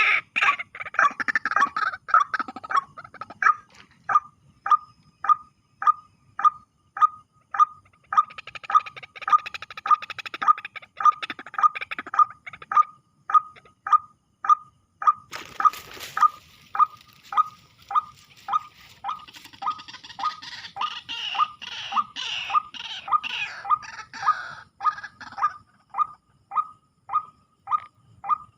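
White-breasted waterhen call: one short clipped note repeated steadily about twice a second, the lure call used to draw the birds in at night. A brief burst of noise cuts in about halfway through.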